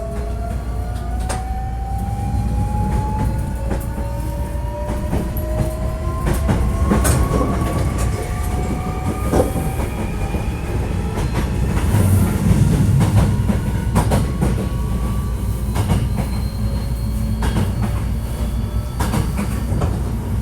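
Onboard running sound of a Hankyu 1300 series electric train pulling away. The whine of the inverter and traction motors rises steadily in pitch as it speeds up, over the rumble of the wheels, with repeated clicks from the rail joints.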